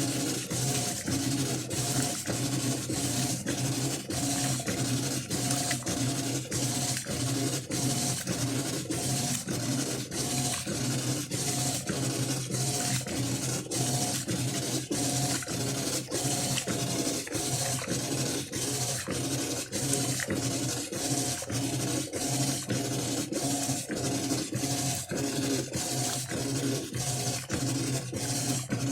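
Electrolux LT12 12 kg top-loading washing machine running, a steady motor hum with regular clicking repeating about twice a second.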